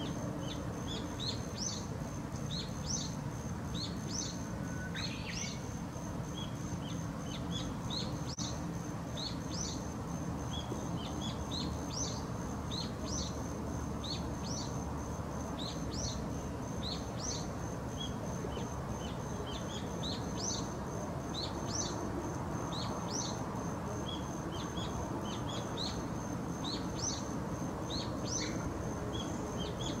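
Small birds chirping in the background: many short, high, rising chirps repeated irregularly, with one lower rising call about five seconds in, over a thin steady high whine and a steady low rumble.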